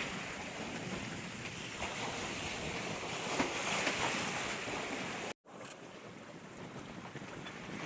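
Wind and sea noise on a sailboat under way: a steady rush of waves and wind, with wind buffeting the microphone. The sound drops out completely for an instant about five and a half seconds in, then returns a little quieter.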